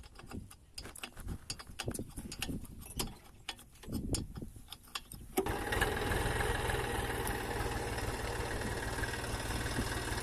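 Scattered clicks and knocks of handling, then about five seconds in a 12 hp diesel pump-set engine starts and settles into a steady run.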